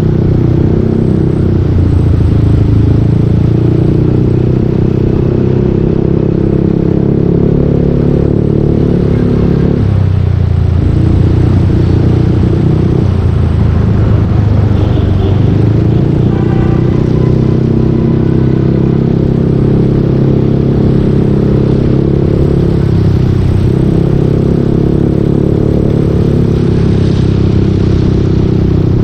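Yamaha Aerox 155 scooter's single-cylinder engine running through a full Yoshimura exhaust while riding, its note rising and falling with the throttle. The engine note drops about a third of the way in, climbs back a few seconds later, and eases off again toward the end.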